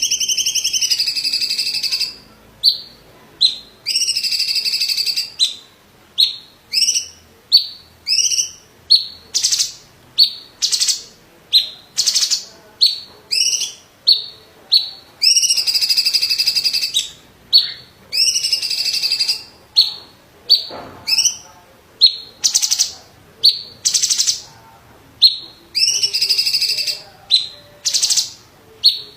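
A cucak cungkok green leafbird (cucak ijo) singing loudly. Sustained, rapidly trilled phrases alternate with runs of short, sharp notes at about two a second.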